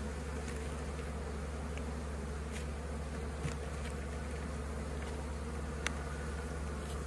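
A mass of honeybees in a package buzzing steadily, with a few faint clicks partway through.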